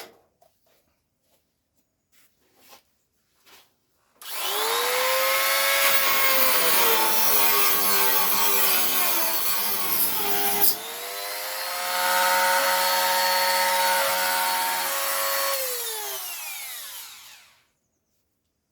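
Dremel rotary tool test-run on a home-made bit holder (an M5 thread cut on the shaft, held by nuts): it spins up with a rising whine about four seconds in, dips in speed with a click about two-thirds through, comes back up, then winds down with a falling whine and stops.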